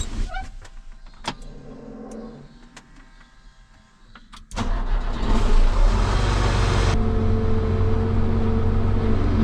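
Windrower engine starting about halfway through, catching at once and settling into a steady run. A few clicks and knocks come before it.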